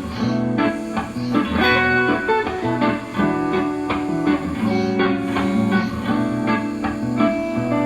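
Guitar music: a guitar playing a busy passage of plucked notes and strums, with no singing.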